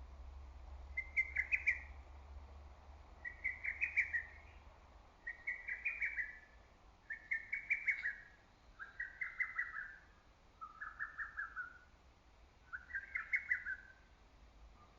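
Lesser cuckoo (hototogisu) singing its rapid, stuttering phrase over and over, about every two seconds, seven times. The later phrases dip slightly lower in pitch.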